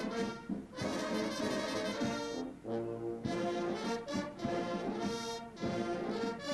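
Brass band playing a slow piece: held chords broken by short pauses.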